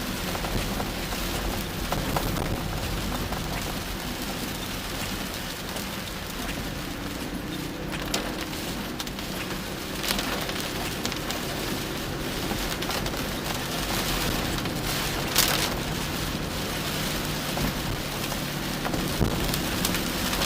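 Heavy rain pouring onto a car, heard from inside, with a steady low hum underneath and a few sharp taps.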